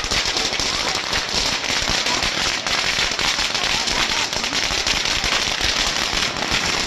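String of firecrackers going off in a rapid, continuous crackle of many small bangs, without a break.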